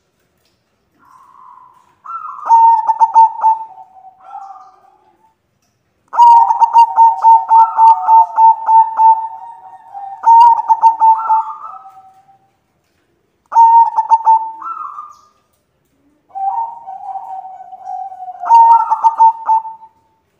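White zebra doves cooing: four bouts of quick stuttering coos, the longest lasting about six seconds, with two calls sometimes overlapping.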